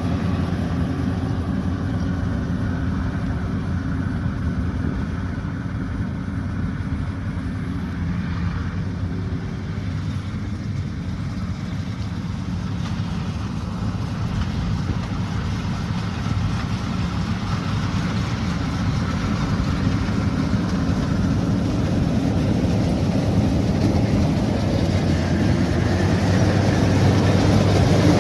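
Rice combine harvester's diesel engine and threshing machinery running steadily, getting louder toward the end.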